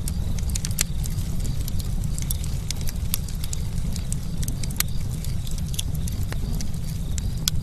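Campfire burning with a steady low roar and frequent irregular sharp crackles and pops of burning wood.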